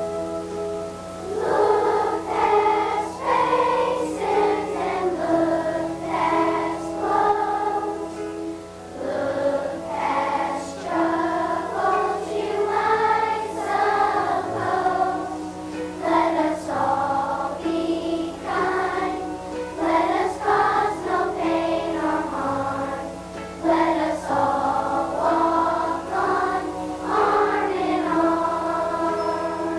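Children's choir singing a song with held instrumental accompaniment, the voices coming in about a second in.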